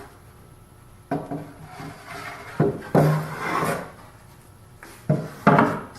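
Wooden workpieces being handled: a few sudden knocks as the pieces are set down or bumped together, each followed by brief rubbing and scraping of wood on wood.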